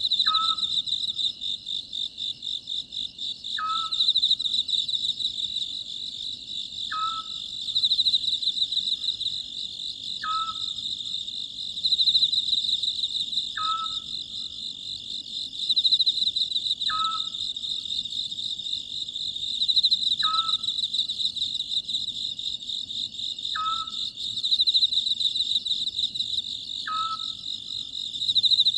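Oriental scops owl calling: a short note repeated about every three and a half seconds, over steady, pulsing insect chirring.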